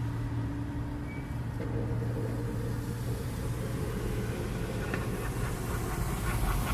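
Car engine and road noise heard from inside the cabin: a steady low hum with a constant hiss over it.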